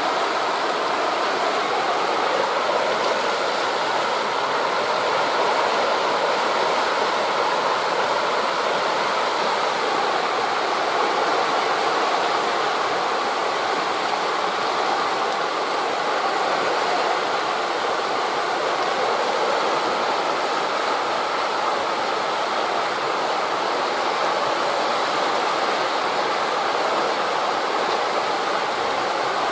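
Steady rushing noise of wind through forest leaves blending with the wash of sea waves on a beach, even and unbroken throughout.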